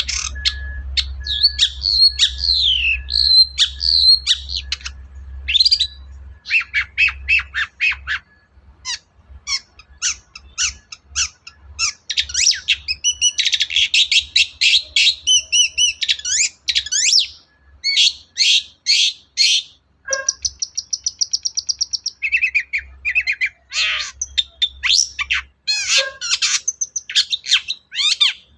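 Long-tailed shrike (cendet) singing a fast, varied song of short sharp notes and trills, with a buzzy rattle about two-thirds through.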